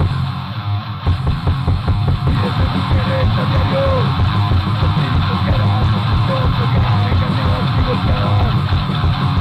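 Loud punk rock song with electric guitar and drum kit; the full band comes in about a second in, after a thinner opening.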